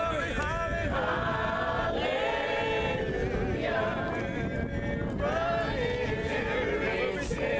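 A congregation singing a cappella, many voices together in harmony with no instruments.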